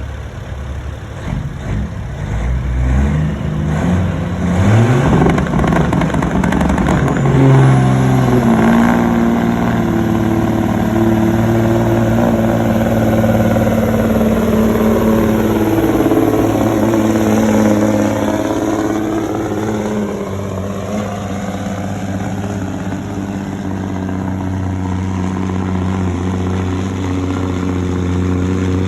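Semi-truck diesel engine revving up from idle in the first few seconds, then running steadily under power with a high whine that comes in about seven seconds in.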